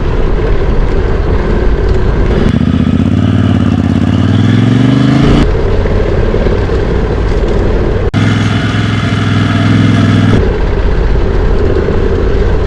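Adventure motorcycle engine running over a steady rushing noise. About two and a half seconds in, the engine revs up with a rising pitch for about three seconds and cuts off suddenly. About eight seconds in, it runs at steady higher revs for about two seconds.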